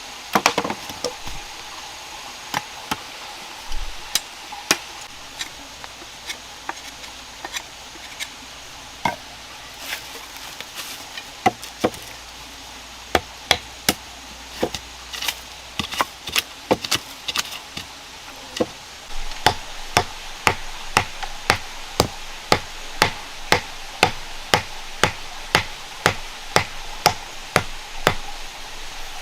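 Repeated chopping strikes of a blade on wood: sparse and irregular at first, then a steady rhythm of about two strikes a second for the last third.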